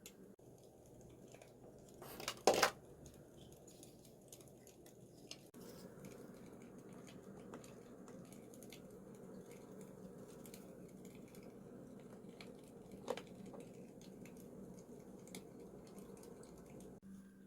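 Quiet household handling sounds: small scattered clicks and taps over a low steady hum, with a louder brief clatter about two and a half seconds in and a single sharp knock near thirteen seconds.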